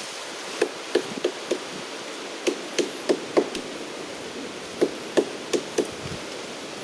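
Sharp chopping strikes, twelve in all, in three quick runs of four, each with a short hollow ring.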